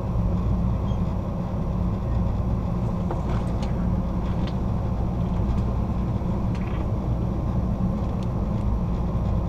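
Steady low rumble of a passenger train rolling over the rails, heard from the rear car, with a few faint short high clicks about three and six seconds in.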